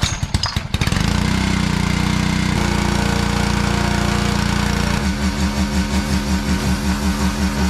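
A small engine is cranked and catches within about a second, then runs steadily. About five seconds in, its note changes to a regular pulsing, roughly three to four pulses a second.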